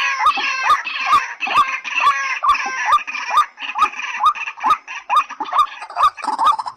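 Recorded rail call of the white-breasted waterhen and watercock kind: a short note with a sharp click and an upward hook, repeated steadily about two and a half times a second.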